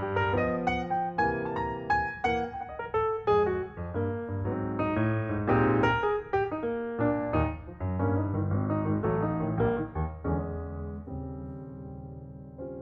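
Calm background music led by piano or electric piano notes over a steady bass line, thinning out after about ten seconds and fading away near the end.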